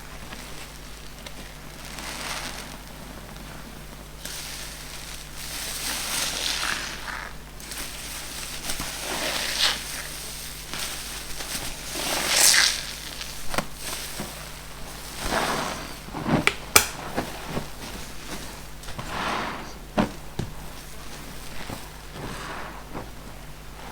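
New foam car-wash sponges squeezed by hand over and over, each squeeze a crackly squishing swell a second or two long, with a few sharp crackles about two thirds of the way through.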